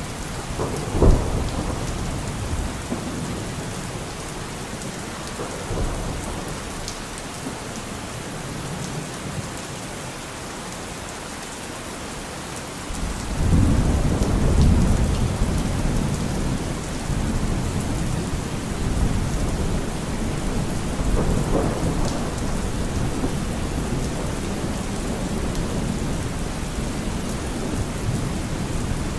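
Steady heavy rainfall with thunder: a sharp crack about a second in, then a long low rumble swelling up about halfway through and rolling on to the end.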